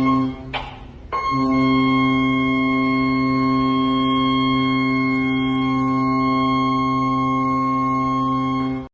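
Alarm sound effect: a low, steady tone, broken briefly by a short swish about half a second in, then held unchanged for about seven seconds before cutting off suddenly near the end.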